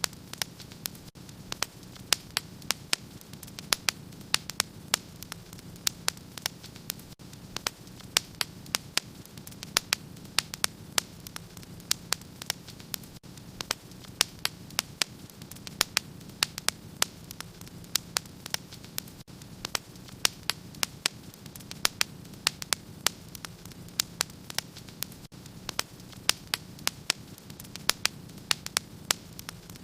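Wood fire in a fireplace crackling: sharp, irregular pops several times a second over a steady low rumble of the burning fire.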